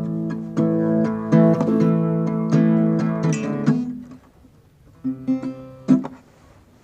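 Guitar strummed in chords. The playing stops about four seconds in, then a few more chords are strummed shortly before the end.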